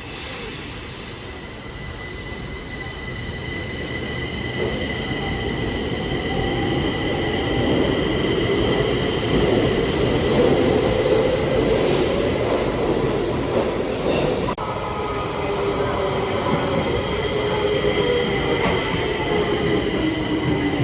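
Stockholm Metro train running on the track, with a steady high wheel squeal over the rumble. It grows louder over the first eight seconds or so, then holds. A couple of sharp clacks come from the running gear past the middle.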